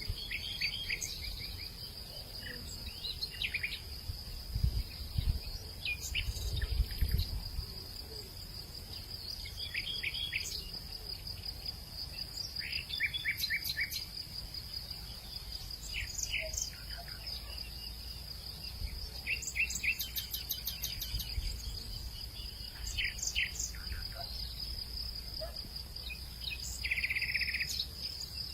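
A steady high-pitched insect chorus, with short bursts of bird chirps every second or two. Under them runs a low wind rumble on the microphone that swells a few seconds in.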